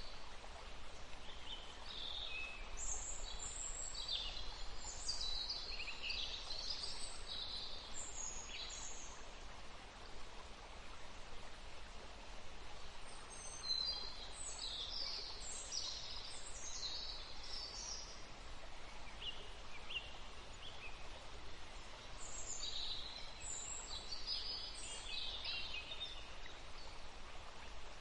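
Forest stream running steadily, with small songbirds singing spells of quick high chirps and trills on and off over it.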